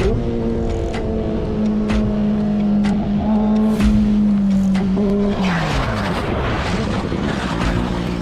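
Motorcycle engine running at a steady speed. About five seconds in, its pitch drops as the revs fall, and a rushing noise rises over it.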